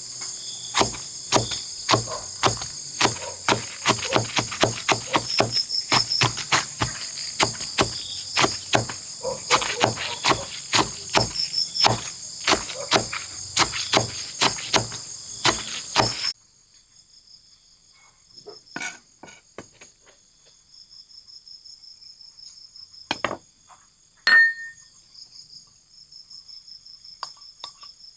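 A steady high chorus of insects, with a rapid run of sharp knocks, about two a second, that stops suddenly about sixteen seconds in. After that only the quieter insect chorus and a few scattered knocks remain.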